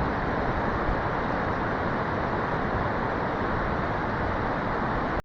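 Steady rushing of a nearby stream's flowing water, even and unbroken, which cuts off suddenly near the end when the recording stops.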